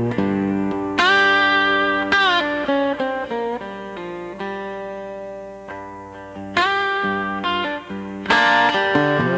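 Instrumental guitar solo in a slow dark-country arrangement: sustained guitar notes over a low backing, several of them bent or slid upward in pitch.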